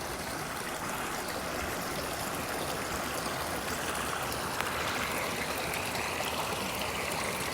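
Water of a partly frozen brook flowing steadily under the ice.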